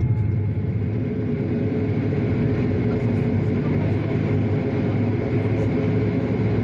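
Train running: a steady low noise with no distinct knocks, clicks or changes.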